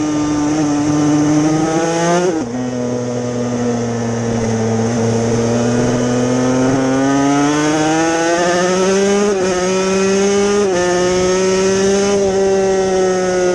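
Yamaha TZ250 two-stroke racing motorcycle engine running hard, its pitch climbing slowly and dropping suddenly at gear changes, once about two seconds in and again near the end.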